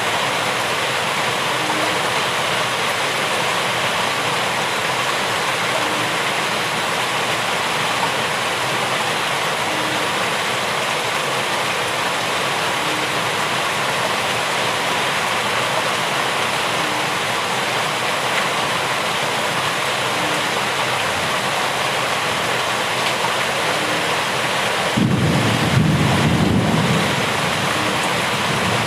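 Steady, heavy rainfall as an even, continuous hiss. Near the end a brief low rumble rises above it for about two seconds.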